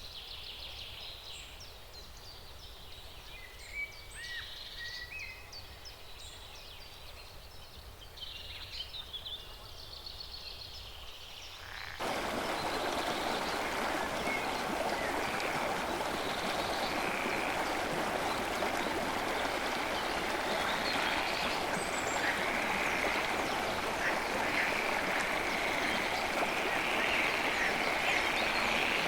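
Forest birds chirping and trilling over a quiet background. About twelve seconds in, the sound switches abruptly to a steady rush of running water, with birds still calling over it.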